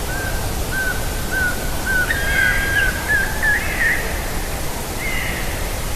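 Birds calling in the wild: a run of short, evenly spaced piping whistles, typical of a pygmy owl, rising in pitch near the end, with harsher crow calls over them about two seconds in and again about five seconds in.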